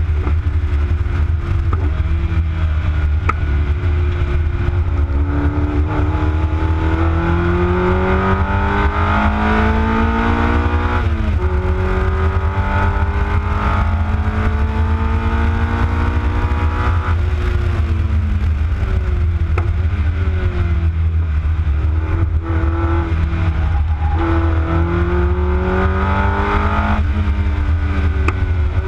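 A V6 car engine at speed on a race track, its pitch climbing steadily through the revs and falling away sharply several times at gear changes or lifts, about eleven seconds in and again near the middle and later on. A steady low rumble of wind buffeting the outside-mounted camera's microphone runs under it.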